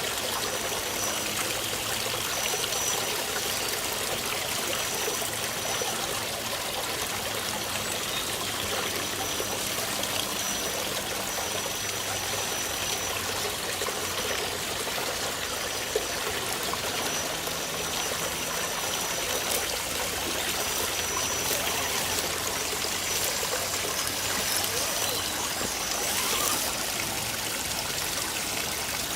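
Steady rush of running water, with a faint high whine that cuts in and out.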